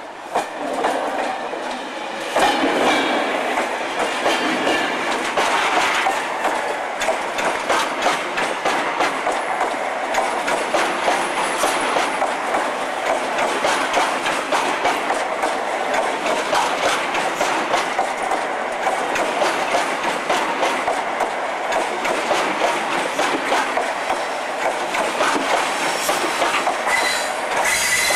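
Passenger train coaches rolling past close by along a platform. Steady wheel noise carries a dense, continuous clicking as the wheels run over the rail joints and track.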